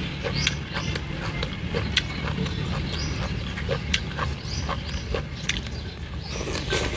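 Close-up chewing of a mouthful of shredded green papaya salad: wet mouth clicks and smacks, several a second, over a steady low rumble.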